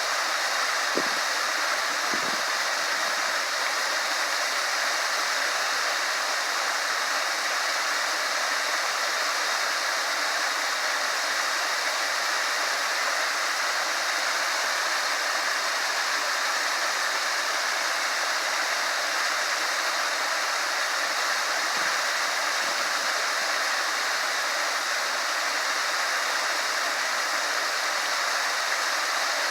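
Small waterfall rushing steadily: an even, unbroken hiss of falling water with no rise or fall.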